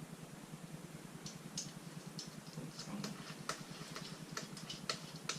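Irregular metallic clicks and clinks of hand tools and nuts as bolts are snugged up by hand on a rotary engine, about a dozen in all, sparse at first and closer together near the end, over a steady low hum.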